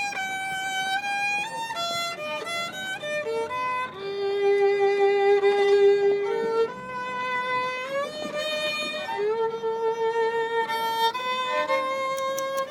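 Solo violin playing a slow melody of held, bowed notes, with a long low note in the middle. Just before the end a regular ticking starts.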